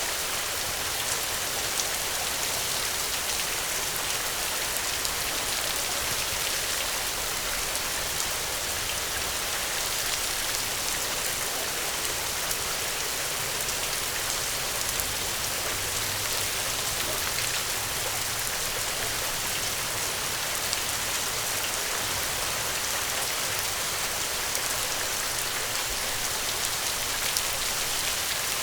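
Steady rain, an even hiss of falling drops that holds at one level, with occasional faint ticks.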